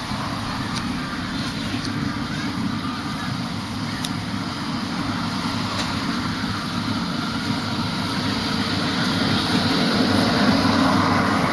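Road traffic noise: motor vehicles running along a busy street, swelling louder toward the end.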